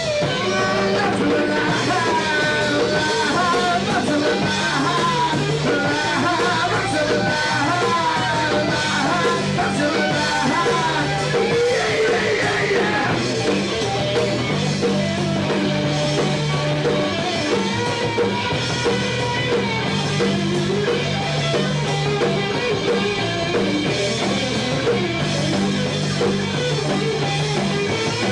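Live rock band playing an instrumental passage: electric guitar lead over bass guitar and drum kit, recorded on a camcorder microphone.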